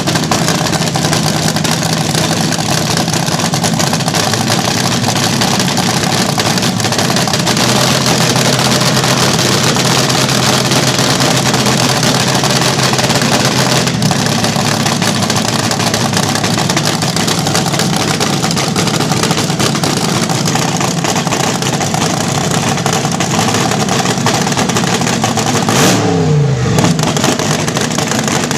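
Vintage slingshot dragster's open-header engine running loud at a fast idle, its pitch stepping to new settings a few times, with a quick falling sweep in pitch near the end.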